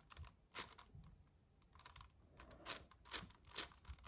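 Layers of a magnetic 7x7 puzzle cube being turned by hand: faint, irregular clicks and clacks, coming closer together in the second half.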